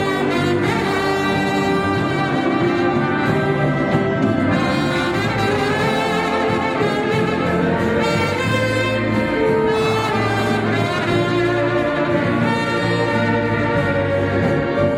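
Instrumental music played by brass instruments in held, overlapping notes.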